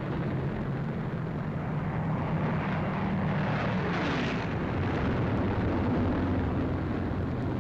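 Piston-engined fighter aircraft in flight, a loud steady engine drone with a downward pitch glide about midway as planes pass.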